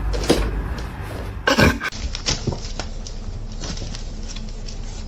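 A few loud knocks and clatters, the biggest about a second and a half in, then quieter steady background with a few faint clicks.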